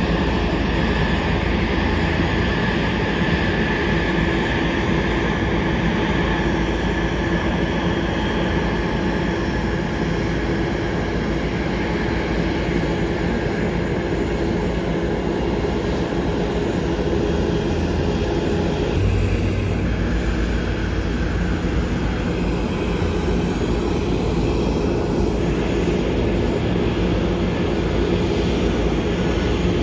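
Airliner engines running steadily, a continuous loud rumble with a steady whine over it; the sound shifts slightly about two-thirds of the way through.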